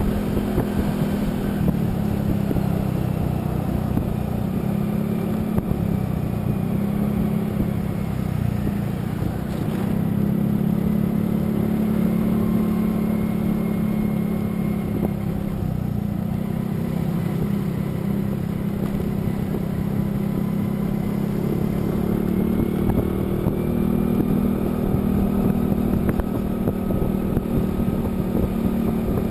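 Motorcycle engine running steadily while riding at cruising speed, its pitch shifting slightly a few times with small changes in throttle.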